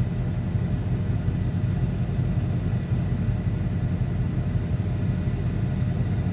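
Steady low rumble of a car driving, with no revving, passes or other distinct events.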